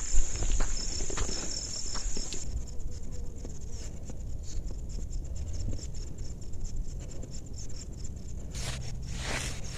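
Forest insects buzzing in a steady high drone that drops out about two seconds in, leaving a fainter rapid pulsing chirp, over footsteps and low rumble on the forest path. Two short rustling swishes come near the end.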